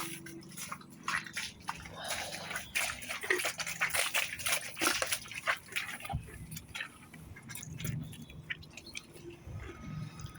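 Horses chewing feed: a dense run of crisp crunching and clicking, thickest in the middle, easing off into softer low thuds towards the end.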